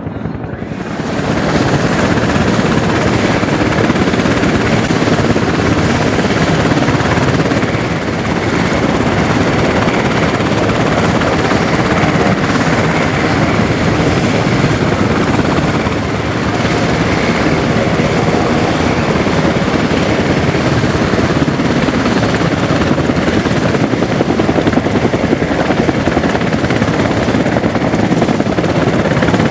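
Military helicopter running close by with a steady, rapid chop from its rotor blades over the engine noise; it grows louder about a second in and stays loud and steady.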